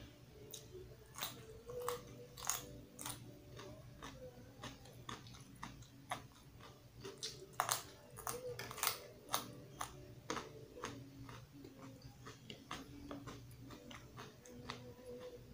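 A person biting and chewing raw carrot sticks, with a run of irregular crisp crunches that are loudest around the middle.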